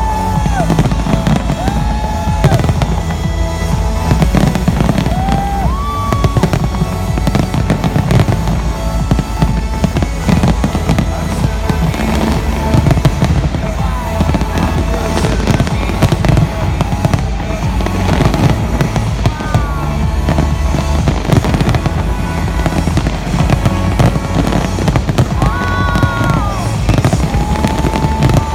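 Dense fireworks display: continual bangs and crackles, with music playing underneath.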